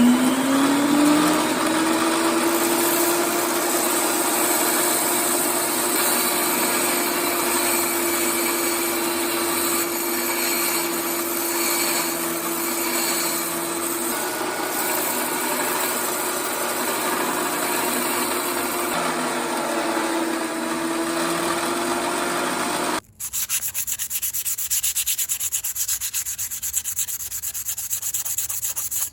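Small electric power tool spinning up to a steady whine and grinding the rust off an iron nail. About 23 seconds in it cuts off abruptly, and rapid scraping rubbing like hand sanding follows.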